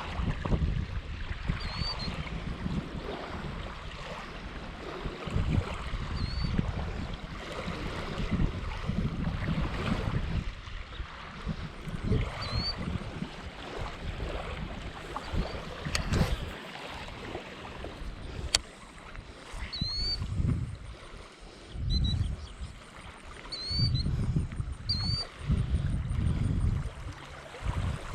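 Wind buffeting the microphone in uneven gusts. A bird gives short, high chirps every few seconds, more often near the end.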